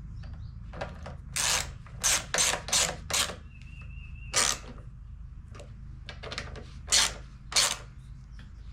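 Hand ratchet clicking in a series of short strokes with pauses between them, tightening bolts.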